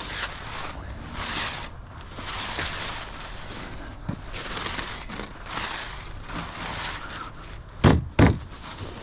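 Footsteps crunching about once a second, then two heavy thuds in quick succession near the end.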